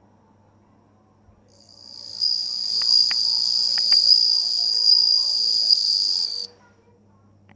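Japanese bell cricket (suzumushi) singing: one high, ringing trill that swells in about two seconds in, holds steady for about four seconds, then cuts off suddenly.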